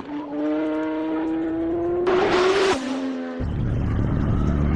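Motorcycle engine at high revs, its pitch climbing slowly for about two and a half seconds, then dropping at a gear change about three seconds in. From then on a heavy low rumble of wind on the microphone fills the sound under the engine.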